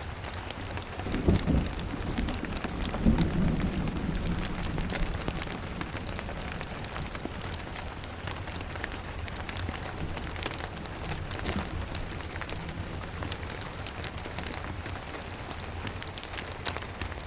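Steady rain with a rumble of distant thunder swelling about a second in and dying away over a few seconds; scattered sharp clicks run through the rain.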